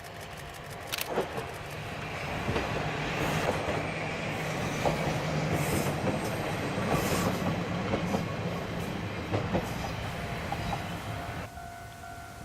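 Diesel railcar running past, its engine note and wheels clattering over rail joints building up and then cutting off sharply near the end.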